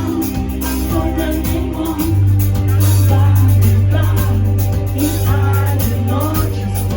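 A pop song playing, with a woman's voice singing a melody over a band and a steady deep bass note.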